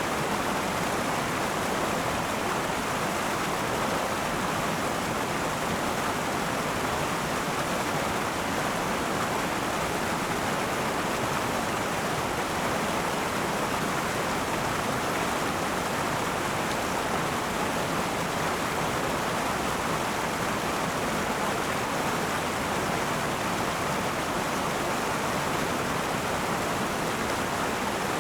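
A river flowing over rocks: a steady, even rush of water.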